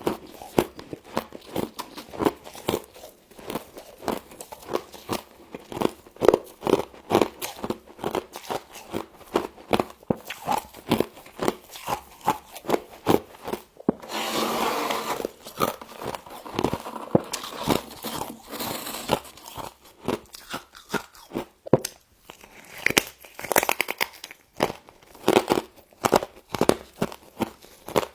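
Humidifier frost being bitten and chewed close to the microphone: a dense run of sharp crunches, with a longer gritty stretch about halfway through.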